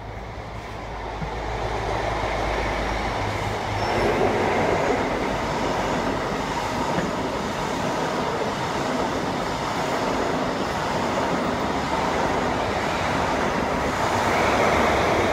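Passenger train running through a station. Its noise swells about two to four seconds in as it approaches, then stays loud and steady as it passes.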